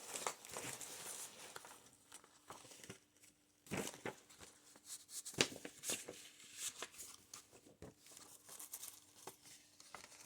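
Paper pages of a thick handmade junk journal being handled and turned, rustling and crinkling faintly, with a few sharper page flaps, the loudest about a third and about halfway in.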